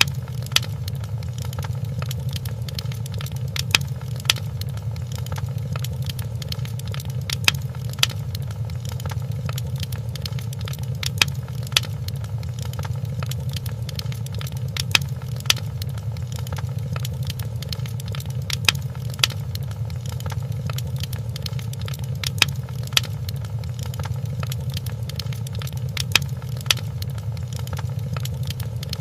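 Wood fire crackling in a fireplace over a steady low rumble, with many small crackles and sharper pops that come in pairs about every four seconds.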